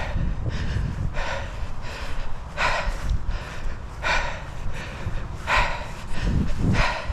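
A person breathing hard, with a loud breath about every second and a half, over a low rumble.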